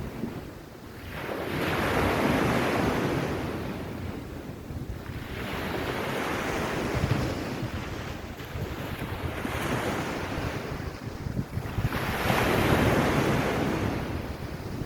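Sea waves washing onto a beach, the surf rising and falling in swells every few seconds, with wind buffeting the microphone.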